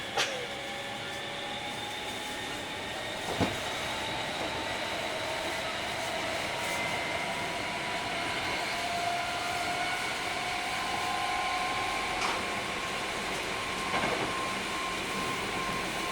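Hankyu 3300 series electric train running, heard from inside the carriage: the traction motors' whine rises slowly in pitch as the train gains speed. A few sharp knocks come through, one near the start, one about three and a half seconds in and two more near the end.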